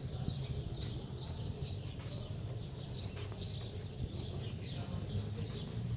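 Small birds chirping over and over, short falling chirps about twice a second, over a low steady background rumble.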